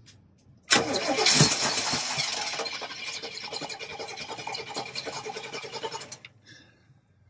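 A Chevrolet motorhome's carburetted engine cranked by the starter and firing on fuel squirted into the carburettor, starting suddenly and running for about five seconds before cutting off abruptly. It runs only on that primed fuel, with no fuel pump heard feeding it.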